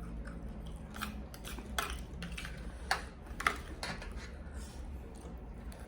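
Scattered light clicks and taps of cutlery and dishes during a meal, irregular and sharp, over a low steady hum.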